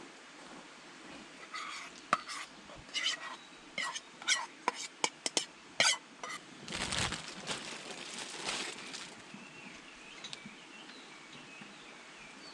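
Hard objects handled at a camp, with about a dozen sharp clinks and knocks over some four seconds, some of them ringing briefly, then a few seconds of rustling.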